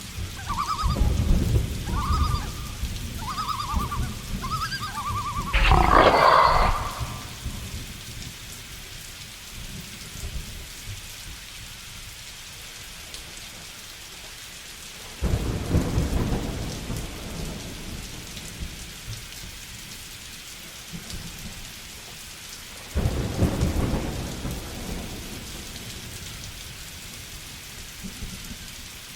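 Steady rain with thunder: a sharp thunderclap about six seconds in, then two more rolls of thunder that start suddenly and die away, about halfway through and near the end. A short animal call repeats about every second during the first few seconds.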